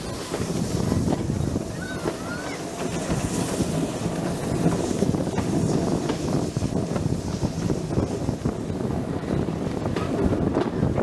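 Steady rumble and rattle of a heritage railway train on the move, with wind on the microphone and a couple of faint squeals about two seconds in.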